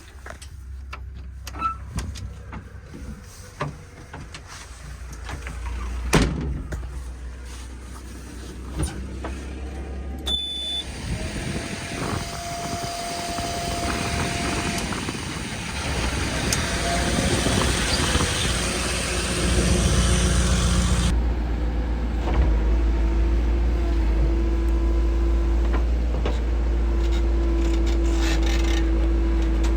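Diesel engines of a JCB loader and a tractor running and getting louder, with several sharp knocks in the first ten seconds and a rushing noise in the middle, then a steady whine over the engine rumble near the end.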